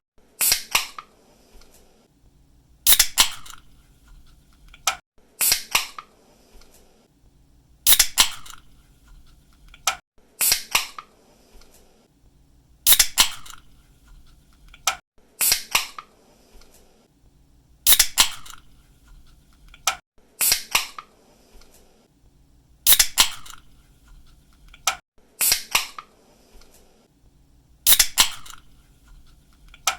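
Pull-tab drink can being cracked open, over and over: a sharp snap of the tab followed by a brief hiss, about once every two and a half seconds.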